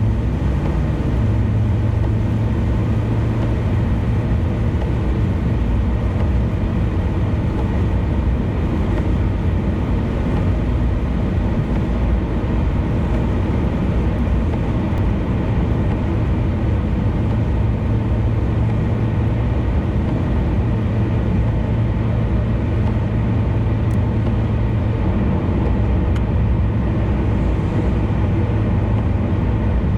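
A car cruising on an expressway: steady tyre and engine noise, an even low rumble with no changes.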